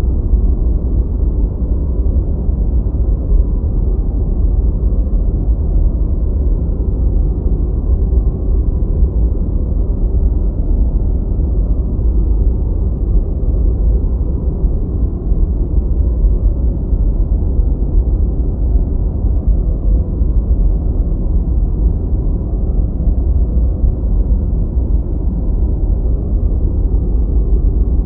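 Deep white noise playing steadily: an even, unchanging rumbling hiss weighted toward the bass, with nothing high-pitched in it.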